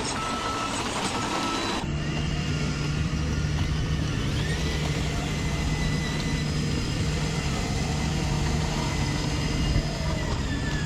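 Radio-controlled construction vehicles running, with a reversing beeper sounding a few short beeps in the first couple of seconds. After that comes a steady, low engine-like hum.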